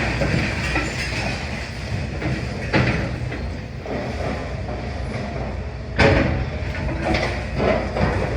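Demolition excavator running steadily under load, with a crash of falling masonry about three seconds in and a louder crash about six seconds in, followed by more clattering rubble.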